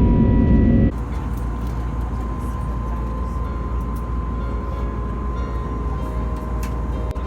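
Steady cabin noise inside an Airbus A320neo airliner in flight: a low rumble and airflow hiss with a faint steady whine. About a second in it cuts suddenly to a quieter, similar stretch of cabin noise.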